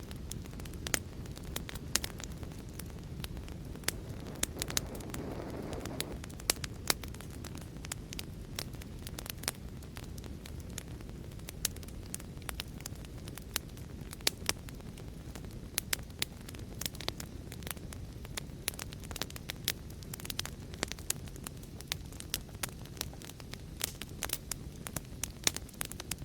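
Fireplace fire crackling: irregular sharp pops and snaps over a steady low rumble, which swells briefly about five seconds in.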